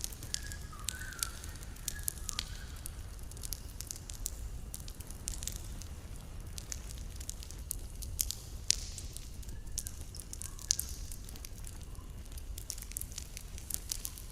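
Campfire burning, with irregular crackles and sharp pops over a low, steady rumble. A few faint short chirps come near the start and again about ten seconds in.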